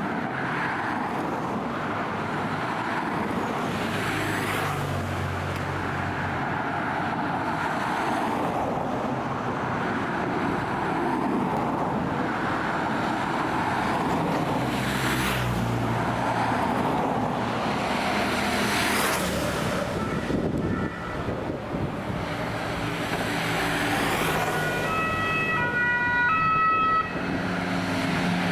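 Motor vehicles passing along a road, with the rush of each pass rising and falling several times. Near the end comes a brief run of alternating pitched tones.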